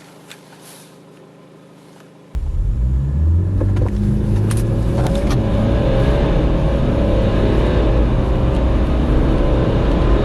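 BMW four-cylinder diesel car engine idling, then about two seconds in launching at full throttle into a loud, steady hard acceleration from standstill.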